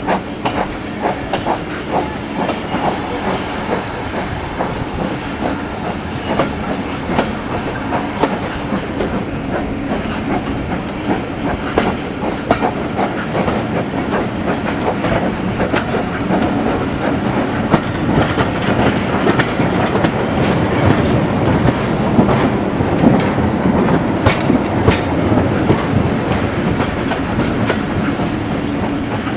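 Train running on rails, its wheels clicking irregularly over rail joints over a steady rumble, growing somewhat louder in the second half.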